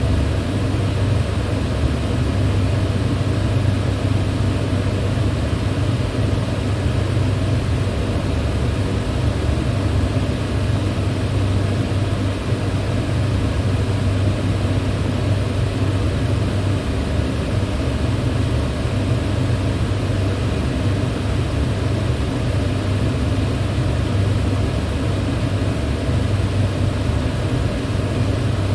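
Electric fan running steadily: an even rush of moving air over a strong low hum, with no changes.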